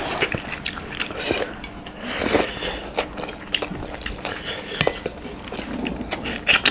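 Close-up eating sounds of two people eating chicken curry and rice with their hands: wet chewing and many short lip-smacking clicks, with the odd light clink on steel plates.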